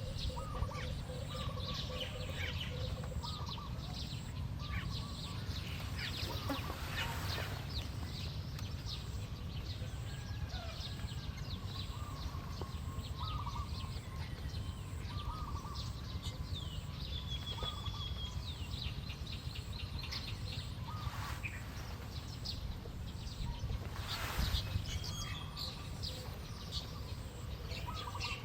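Small birds chirping with many short, repeated calls over a steady low background rumble, with a few brief rustling noises.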